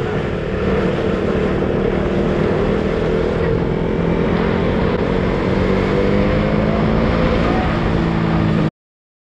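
KTM Duke's single-cylinder engine running at low speed on the move, with wind noise on the helmet microphone; the engine note climbs a little past the middle. The sound cuts off abruptly to silence shortly before the end.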